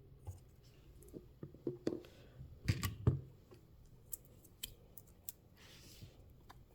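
Small clicks and taps of tiny miniature-kit pieces being handled and fitted by hand, with two louder clicks close together about three seconds in and a soft rustle near the end.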